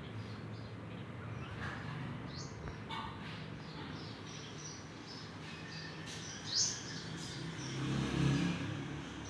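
Small birds chirping with repeated short, high calls, one louder rising call about two-thirds of the way through, over a steady low rumble that swells near the end.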